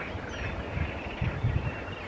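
Small birds chirping, over a low rumble with thumps on the microphone that are strongest a little past the middle.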